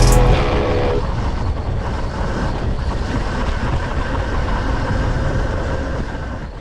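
Dirt bike on a motocross track, heard as a steady rough engine-and-wind noise without a clear pitch, fading out near the end.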